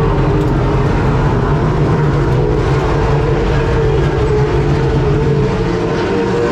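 A car engine running at a steady high speed, its low drone easing slightly near the end.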